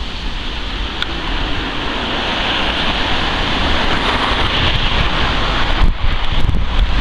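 Jet airliner passing overhead: a broad rushing engine noise that swells towards the middle and eases off near the end, with wind buffeting the microphone.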